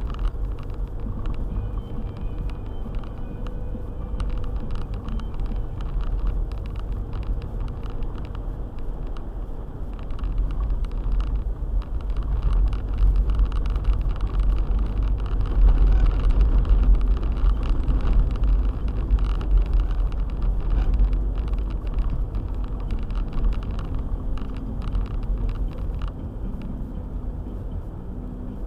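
A car driving on a snowy road: a steady low rumble of engine and tyres that grows louder from about twelve seconds in, then eases off toward the end.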